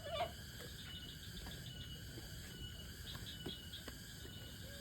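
Insects trilling steadily, with a few short runs of quick pulsed chirps, over a low rumble. A brief knock just after the start is the loudest moment.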